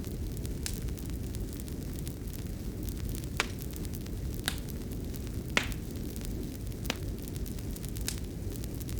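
Wood fire in a fireplace crackling: a steady low rumble with sharp pops every second or so, the loudest a little past the middle.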